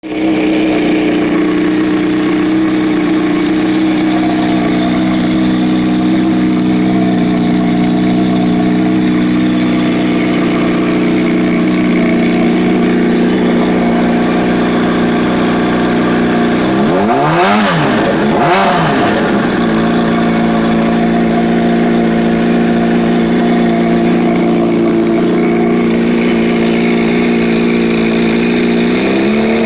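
Honda CBR600RR inline-four idling steadily through a Two Brothers aftermarket exhaust, with two quick blips of the throttle a little past halfway, after which the idle settles slightly lower.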